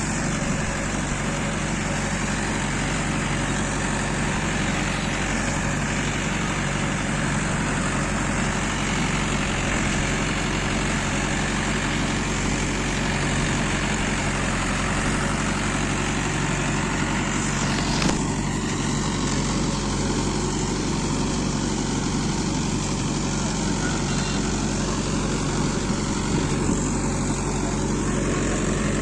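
Mahindra Yuvo 585 tractor's diesel engine running steadily at an even speed, with one brief sharp click about eighteen seconds in.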